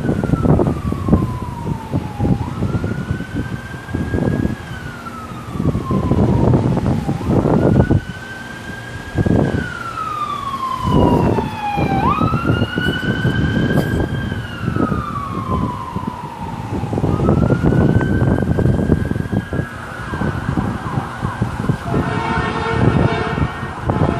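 Emergency vehicle siren wailing, its pitch slowly rising and falling about once every five seconds, with strong wind gusts buffeting the microphone. Near the end there is a short, steady horn-like blast.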